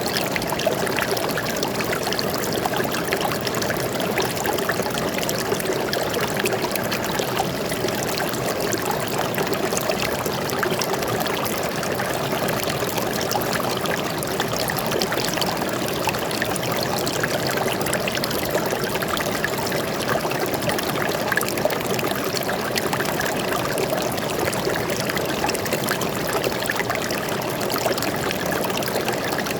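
Shallow forest stream running over rocks, a steady rush of water with fine splashing and trickling throughout.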